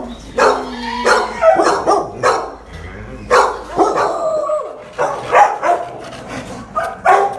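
Shelter dogs barking repeatedly for attention, in short sharp barks at an uneven pace, sometimes two or three a second.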